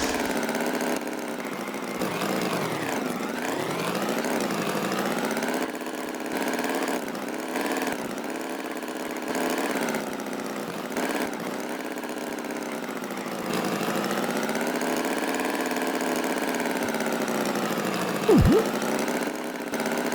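A steady, engine-like drone whose pitch slowly wavers up and down, with a quick, loud swooping glide in pitch near the end.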